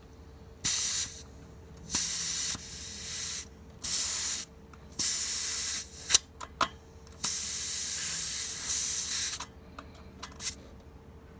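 Air hissing out of a motorcycle tyre's valve stem in about six short bursts as a tyre pressure gauge is pushed on and off it, with a couple of clicks a little after the middle. The air escapes because the gauge is hard to seat squarely on the valve.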